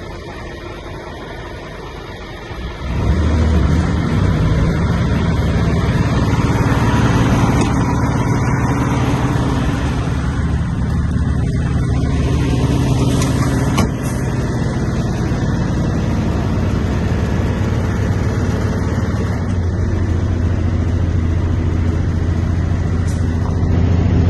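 Diesel engine of a Scania P230 truck starting about three seconds in, then idling steadily.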